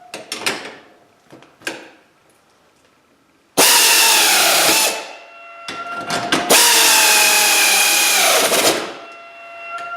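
Power drill run twice, briefly and then for about three seconds, the motor's pitch sagging under load at the end of each run. A few light clicks and knocks come before it.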